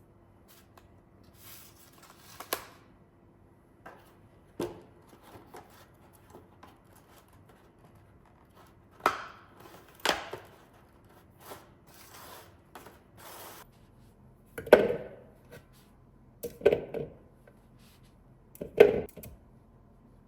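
Kitchen items being handled and set down, heard as irregular clicks and taps. Three louder knocks fall in the last third.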